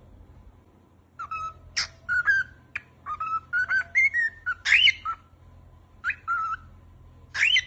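Cockatiel whistling: a string of short, sliding whistled notes, a brief pause, then a quick run of rapid repeated chirps near the end.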